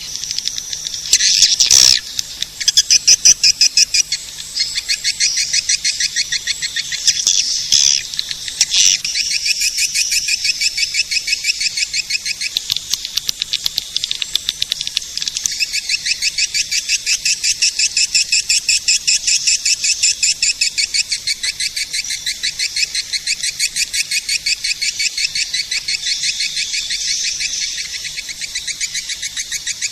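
Swiftlet-caller recording of swiftlets twittering in a loud, unbroken chatter of rapid, high-pitched pulsing chirps, the call played to draw swiftlets into a nesting house.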